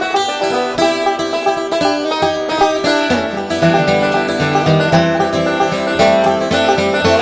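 Banjo and guitar picking a bluegrass-style instrumental, a fast stream of plucked notes, with lower guitar notes coming forward about three seconds in.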